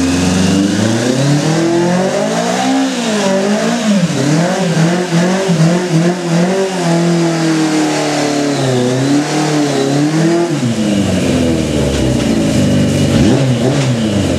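Yamaha motorcycle engine revving hard during a burnout, the revs climbing over the first two seconds and then swinging up and down again and again while held high, with the hiss of the spinning rear tyre over it.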